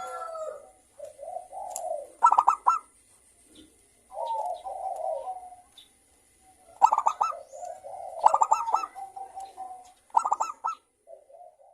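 Zebra doves (perkutut) cooing back and forth: phrases of quick stuttering notes run into rolling coos, a new phrase every second or two with short pauses between.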